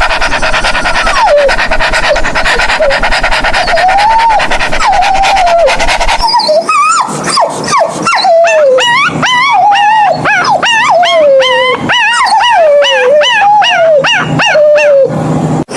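Dog whining and howling in long wavering cries, then, after a sudden change about six seconds in, many short whines and yips rising and falling in quick succession.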